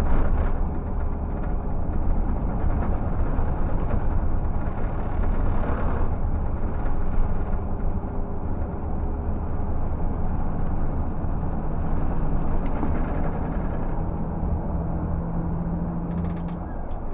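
Scania 360 truck's diesel engine running steadily under way, a continuous low drone.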